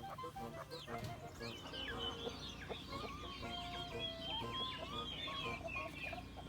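Mixed aviary birds calling: many short high chirps and whistled notes from small finches, overlapping continually, with lower clucking calls from game birds, most in the first couple of seconds.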